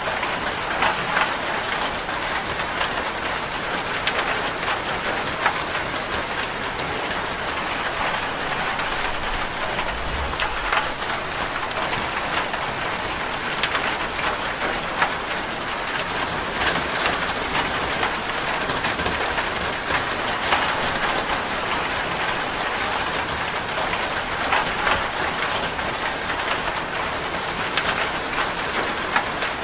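Steady rain falling, with scattered sharper ticks now and then.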